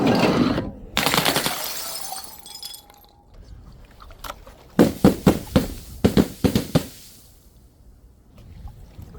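Glass smashing about a second in, with pieces ringing as they scatter and settle. About five seconds in comes a quick run of about eight sharp glassy knocks over two seconds.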